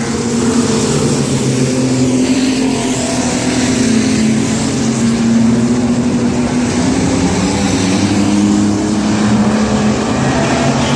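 Race truck engines running hard on a short oval track, a steady loud drone that wavers gently in pitch as the trucks circulate.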